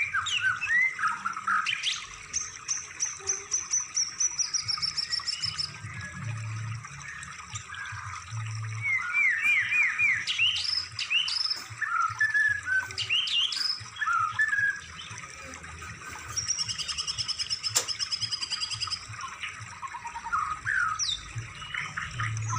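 Songbirds singing in a layered mix: rapid chirps and quick whistled slides, with a long high rapid trill about two seconds in and another about sixteen seconds in.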